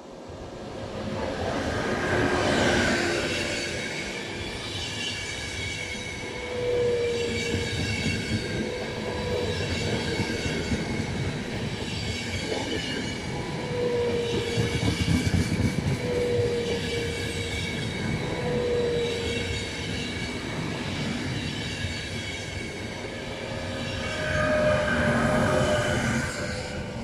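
An Italian passenger train passing at speed with wheels rumbling on the rails. An E.402 electric locomotive at the head and a second E.402 pushing at the rear each bring a steady high electric whine and a peak in loudness, about two seconds in and again near the end. Between them the long rake of coaches rolls by, with a few short squealing tones.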